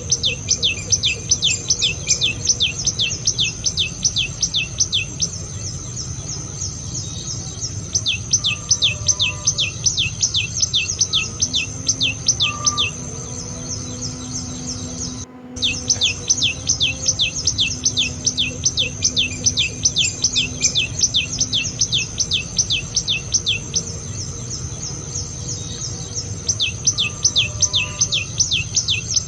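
Common tailorbird calling: long, fast series of sharp, high notes, about four a second, each sliding down in pitch. The series stop and start again several times.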